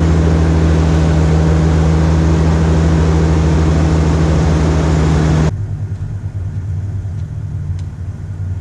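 Pickup truck engine, a 4.9-litre inline-six, idling steadily after the fuel-line repair. About five and a half seconds in, the sound cuts suddenly to a quieter, rougher low running.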